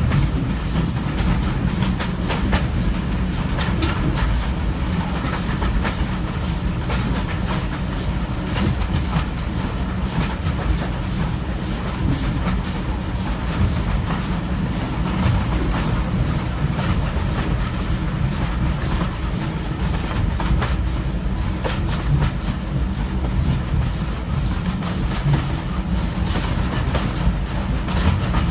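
Steam-hauled heritage train running, heard from a carriage window behind a Stanier Black 5 4-6-0: a steady rumble from the moving coaches, with the wheels clattering over rail joints in irregular clicks.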